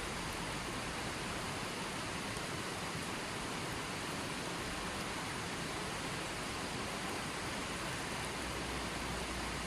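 Running water flowing steadily, an even, unbroken hiss with no changes.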